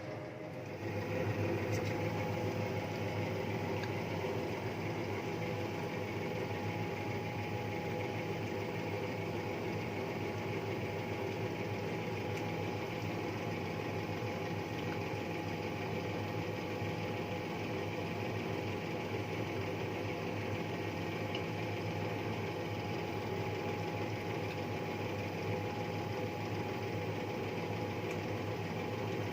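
Steady electric motor hum from a household appliance, starting about a second in and holding at an even level.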